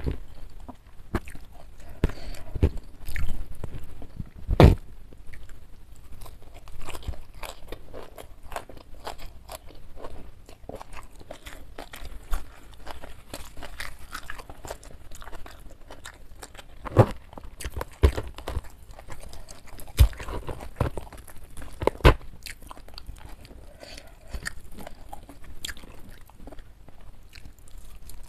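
Close-miked chewing and crunching of a meal of jengkol curry, crispy fried chicken, fern shoots and rice, with wet mouth sounds and a run of short clicks. A few loud sharp snaps stand out.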